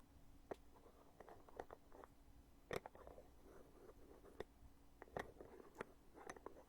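Heavy lid of a foundation compact being opened and closed by hand: a scatter of soft clicks and taps, the loudest click nearly three seconds in.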